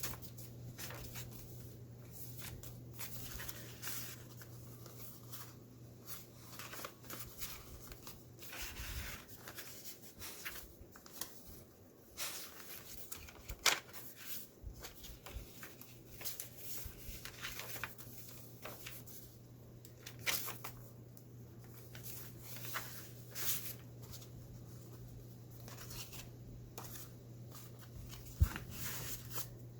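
Pages of a handmade paper junk journal being turned and handled, paper rustling and crinkling in short irregular bursts, over a low steady hum.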